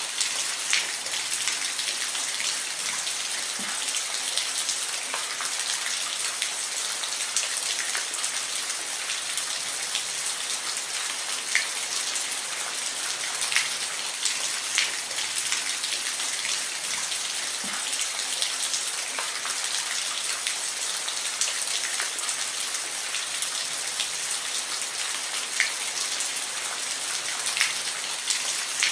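Steady rain falling, a constant hiss with scattered louder individual drops ticking on a surface.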